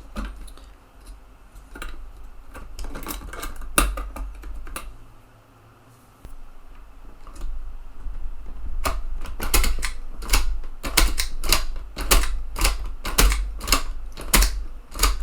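Sharp mechanical clicks from a TEAC FD-235F 3.5-inch floppy drive's eject mechanism being worked by hand. A few scattered clicks come first, then a rapid run of clicks over the last six seconds.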